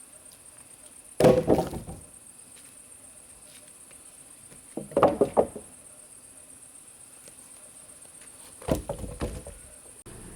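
Three heavy thumps, each a quick cluster of knocks lasting under a second, about every three and a half seconds, over a steady high-pitched hum.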